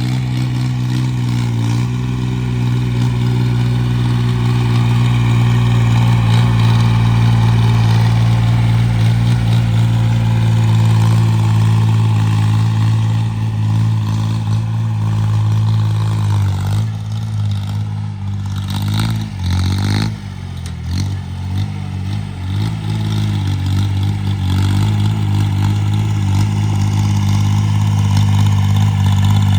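Engine of a home-made 26 hp tractor running steadily. Its speed drops and wavers for a few seconds past the middle, then picks up and holds steady again.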